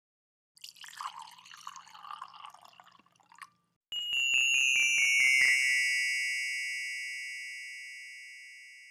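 A short, faint, fluttery sound effect, then a quick run of bell-like chime strikes about four seconds in. The run rings on and slowly fades away.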